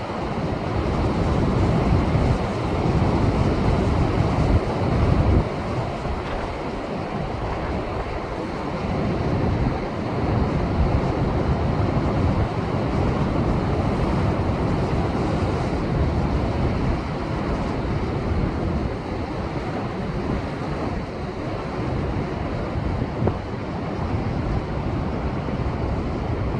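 Rough, typhoon-driven sea surf breaking and churning against shore rocks, a continuous noisy wash that swells louder now and then, with wind buffeting the microphone.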